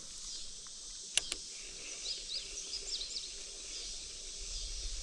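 Steady high insect chirring, with a few short bird chirps about two to three seconds in. Two sharp clicks come close together about a second in.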